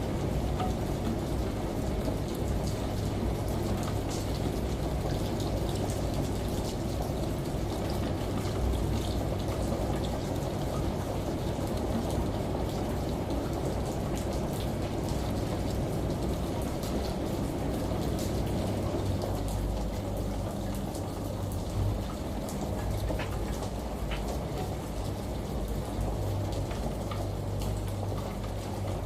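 Steady rain and running water over a low, steady hum: a blended ambience of rain, a washing machine and a shower, with scattered light drop ticks.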